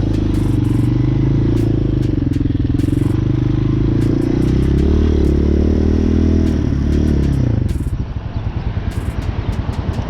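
Hawk 250 dual-sport motorcycle's single-cylinder engine running as it pulls away, its pitch climbing in the middle. About three-quarters of the way through, the engine note drops away and a rough, pulsing low rumble takes over.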